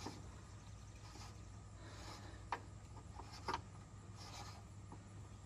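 Faint rubbing and scraping of hands handling parts, with a sharp light click about two and a half seconds in and another about a second later.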